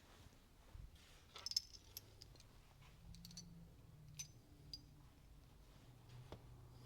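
Faint, scattered metallic clinks and taps of small engine parts and tools being handled, picked up and set down, the sharpest about one and a half seconds in.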